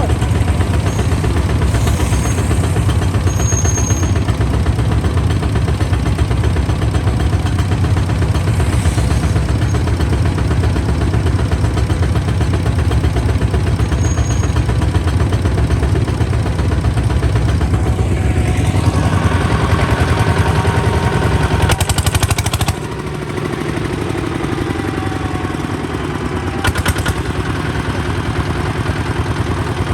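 Kubota ZT155 DI single-cylinder diesel engine running steadily. About three-quarters of the way through, the note gets quieter and its deep low end thins out.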